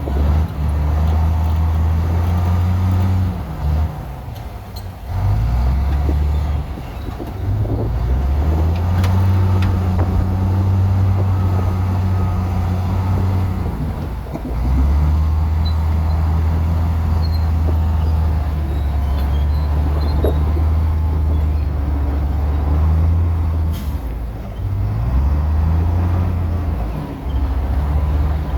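Heavy diesel engine of a bulldozer working, a loud low drone whose pitch dips and picks up again a few times as the load and throttle change.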